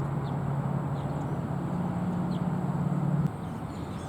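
A motor running with a steady low hum that shifts slightly in pitch partway through and cuts off suddenly about three seconds in, over steady background noise.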